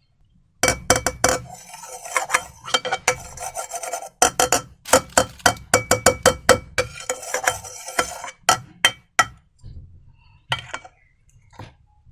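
A utensil clinking and scraping against a bowl in quick, irregular strokes, with a faint ringing from the bowl. There is a brief pause about four seconds in, and the strokes thin out to a few scattered clicks after about nine seconds.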